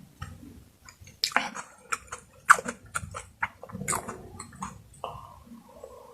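Close-miked eating: a person chewing and smacking, with a run of sharp wet clicks and crackles through the middle.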